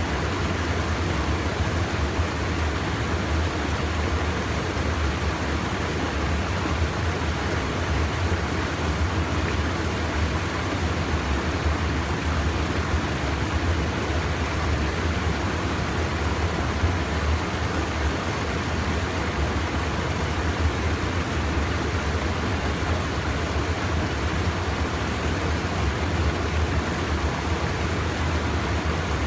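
River water pouring over a small check dam: a steady rushing noise with a low rumble.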